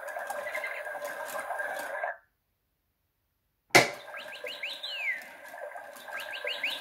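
Toy parrot's electronic sound: a steady hum with faint ticking that cuts off after about two seconds. Then comes a click, and twice a quick run of rising chirps ending in a falling whistle.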